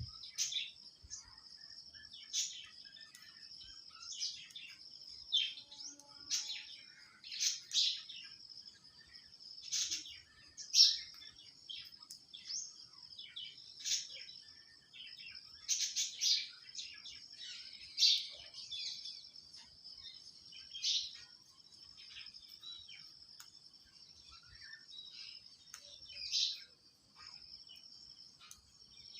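Short, sharp high-pitched bird chirps every second or two, over a steady high-pitched hiss or buzz.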